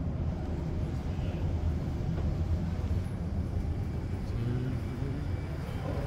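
Steady low rumble of a stationary train waiting to depart in an enclosed station, heard from inside the carriage near the open doorway, with a brief low hum rising out of it a little past the middle.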